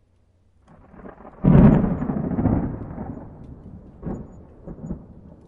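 Thunder: a low rumble builds, a loud clap comes about one and a half seconds in, and it rolls away with a few smaller cracks near the end.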